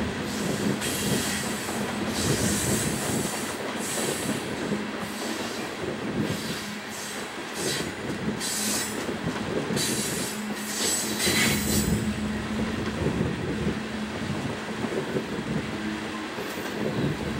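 Loaded coal hopper cars rolling past on a curving upgrade, a steady rumble of steel wheels on rail. From about a second in until about twelve seconds in, high squeals and screeches from the wheels come and go over the rumble, then ease off.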